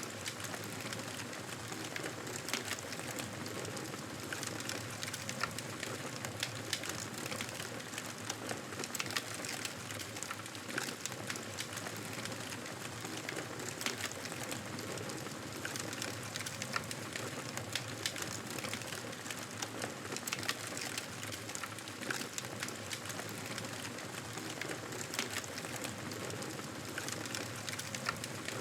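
Wood fire crackling in a fireplace: a steady hiss with frequent small sharp pops and snaps.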